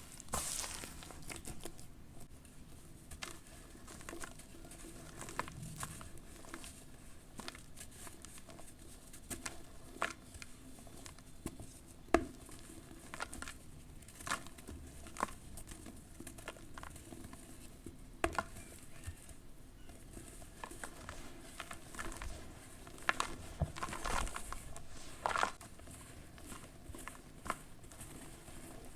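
Crunchy charcoal ash crumbling as it is dipped in water, with irregular soft crackles and sharper cracks scattered throughout and a pattering of falling bits; one crack about twelve seconds in is the loudest.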